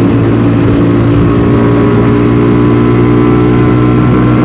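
DF250RTS (Venom X22R) motorcycle's single-cylinder four-stroke engine running at a steady pitch, cruising in fourth gear at a little over 50 mph.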